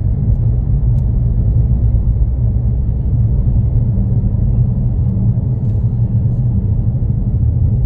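Steady low rumble of a vehicle driving along a road: engine and road noise.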